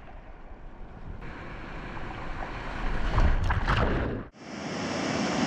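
Churning surf and water noise with wind buffeting the microphone, growing louder about three seconds in, then cutting out abruptly and coming back as a steadier hiss.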